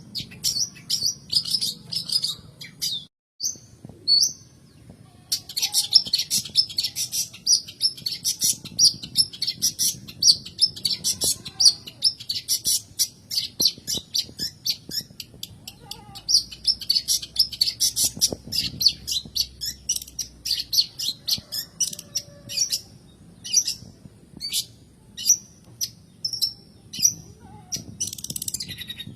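Long-tailed shrike (cendet) singing a fast, chattering run of sharp, high notes, with a brief break about three seconds in and sparser notes near the end.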